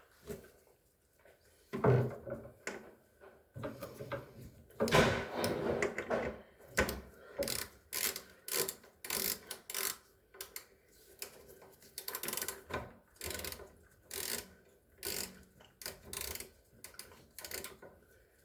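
Irregular clicks, knocks and rattles of hand tools and refrigerator parts being handled, with a few louder knocks about two and five seconds in.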